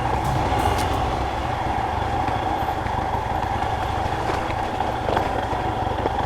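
Royal Enfield Himalayan's single-cylinder engine running steadily at low speed as the motorcycle is ridden along a forest trail, with a few faint clicks over it.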